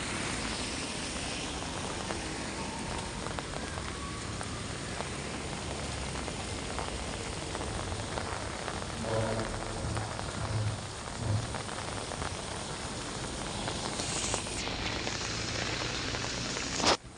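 Heavy rain falling steadily, with a few low thumps midway and a sharp click near the end where the sound cuts off.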